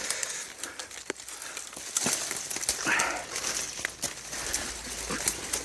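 Footsteps crunching and rustling through dense, dry undergrowth, with irregular snaps and crackles of twigs and leaves.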